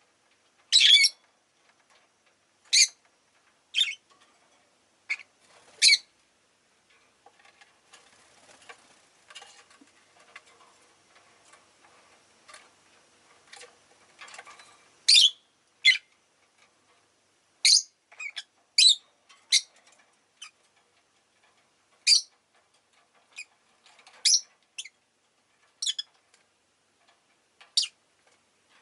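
Rosy-faced lovebirds giving short, sharp, high-pitched chirps, one at a time at irregular intervals, with a quieter stretch of faint softer sounds in the middle.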